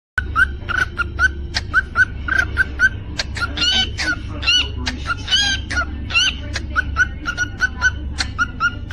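Cockatiel singing: a fast run of short, repeated chirps, with a few longer rising-and-falling whistles in the middle. A steady low hum runs underneath.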